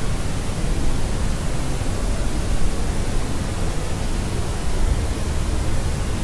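Steady white noise, heavier in the low end, holding an even level with no change.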